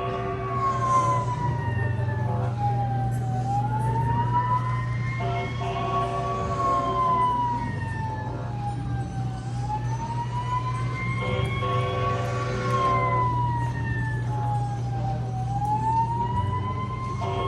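Electronic fire-engine siren effect from a Jolly Roger fire engine kiddie ride, a slow wail that rises and falls about every six seconds, with a short burst of steady tones at each peak. A steady low hum runs underneath.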